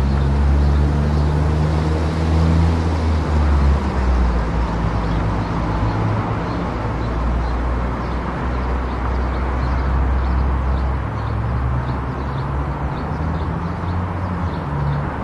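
Car driving at highway speed: steady engine drone and tyre-on-road noise. A faint, regular high ticking, about two or three a second, comes in about halfway through.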